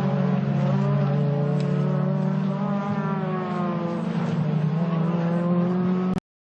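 Race car engines running at fairly steady revs, their pitch drifting slowly up and down. The sound cuts off abruptly near the end.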